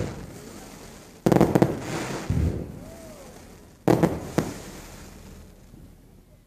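Fireworks exploding: two volleys of sharp bangs, one about a second in and another about two and a half seconds later, each a quick cluster of several cracks followed by a fading rumble of echo.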